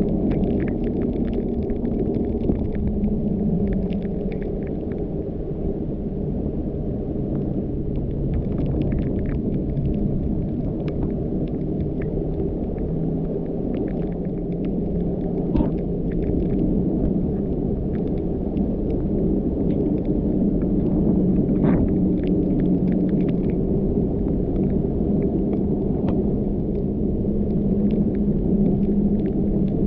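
A moving car's engine and tyre noise, a steady low rumble with a humming tone that drifts slowly in pitch as the car runs along the road. Scattered faint ticks sound over it.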